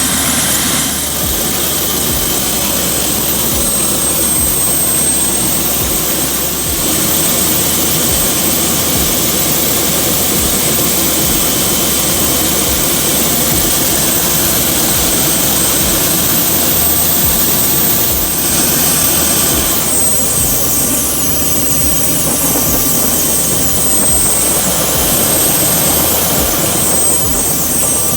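Helicopter in flight: steady, loud turbine and rotor noise.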